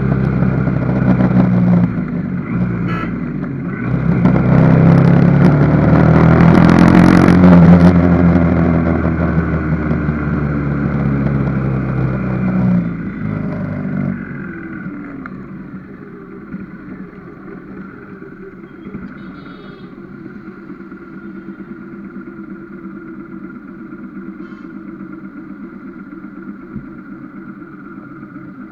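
Motor vehicle engine and road noise on the move: loud running with a louder surge about four to eight seconds in, then, from about halfway, a quieter steady hum.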